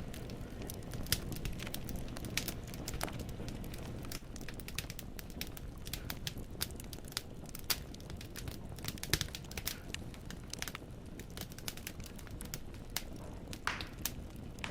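Wood fire burning in a fireplace, the logs crackling with frequent irregular sharp pops over a low, steady rush of flame.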